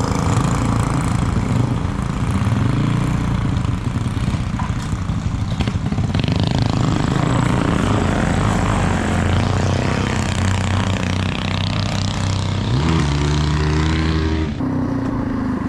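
Mini bike engines running on the trail. Near the end one rider pulls up, its engine settling to a steady idle for a second or two before it cuts off.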